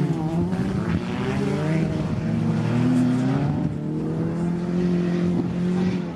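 Several banger-racing cars' engines running hard on the oval, overlapping engine notes rising and falling as the cars accelerate and lift off. One note holds steady for a couple of seconds past the middle.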